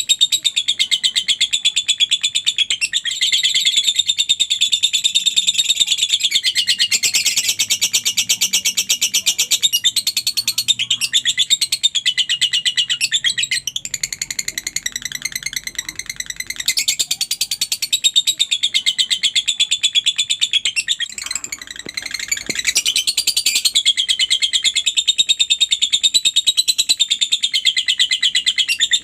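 Lovebird chattering in a long, rapid, high-pitched trill of chirps that hardly stops, with a short break about three-quarters of the way through.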